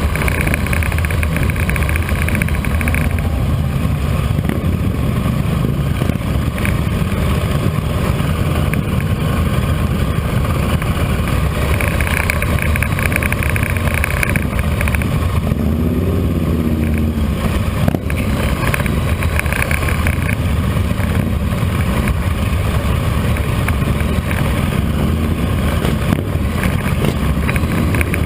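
Motorcycle running at a steady pace on a street ride, its engine and road noise a constant low rumble with no sharp changes.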